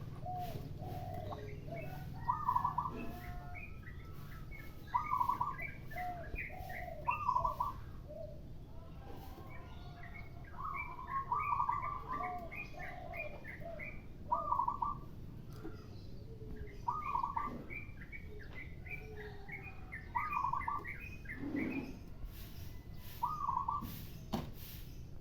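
Birds calling over each other: clusters of quick chirps and loud, clear call notes repeating every couple of seconds. Among them are dove calls from zebra doves and spotted doves.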